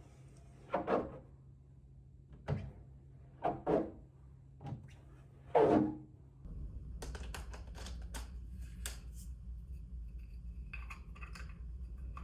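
A series of separate knocks and thunks of objects being handled, the loudest near six seconds in. Then a steady low hum starts, with a quick run of clicks over it.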